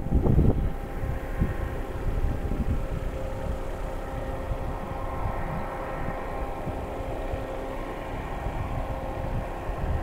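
Steady engine drone holding one pitch, with wind buffeting the microphone in the first second.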